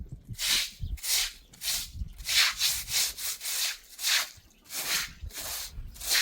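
Repeated rubbing strokes, a little under two a second, like something being scrubbed or scraped back and forth.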